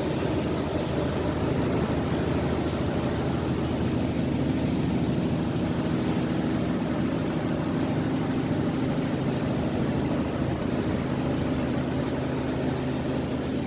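Pusher boat's engine running steadily as it drives the river ferry barge: an even, unbroken low drone.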